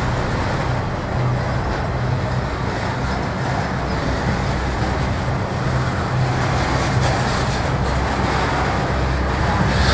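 Intermodal freight cars carrying double-stacked containers and trailers rolling past: a steady rumble of steel wheels on the rails.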